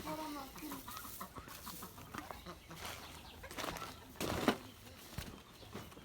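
Chickens clucking, with a short, loud rustling burst about four and a half seconds in.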